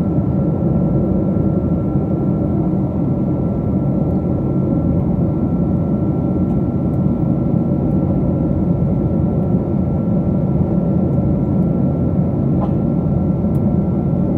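Steady cabin roar inside a Boeing 777-200 airliner, with a thin steady whine running through it.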